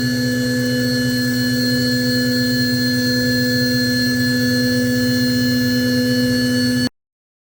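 Cue Demon CNC spindle running steadily while it cuts a taper profile on a wooden pool cue shaft, a constant whine over a low hum. It cuts off suddenly near the end.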